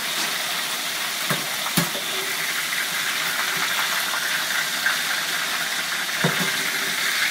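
Flour-dusted calamari frying in very hot oil in a stainless steel skillet, a steady sizzle, with a few knocks of a metal utensil against the pan as pieces are lifted out.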